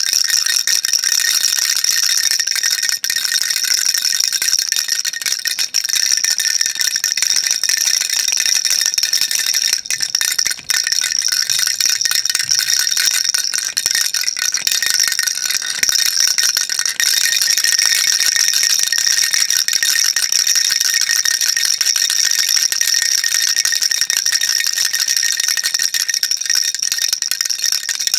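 Baby rattle shaken continuously: a dense, steady stream of small high-pitched clicks, with a brief dip about ten seconds in.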